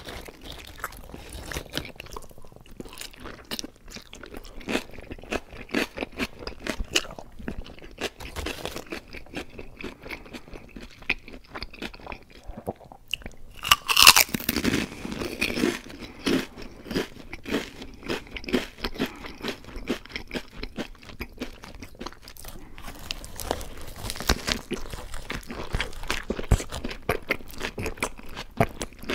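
Close-miked eating: a person chewing and crunching on crunchy food, with a loud crunchy bite about halfway through.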